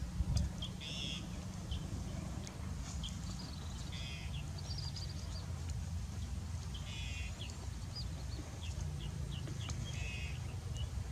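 Birds chirping in short, repeated calls and brief trills over a steady low rumble.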